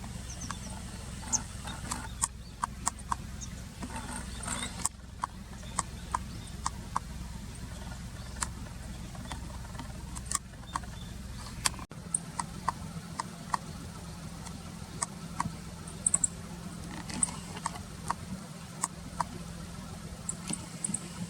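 Scattered sharp clicks and a few short, very high chip notes, typical of a meadow bunting feeding in dry grass, over a steady low rumble of distant traffic.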